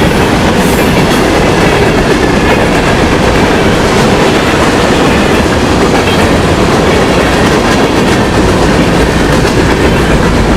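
Freight train rolling past at speed: a steady loud rumble of railcars, with wheels clattering over the rail joints.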